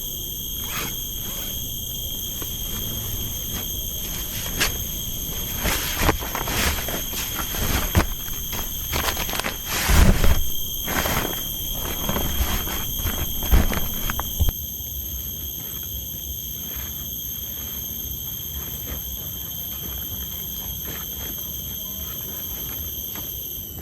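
Rainforest insects holding a steady high-pitched tone, with a string of knocks and rustles over it, busiest and loudest from about four to fifteen seconds in.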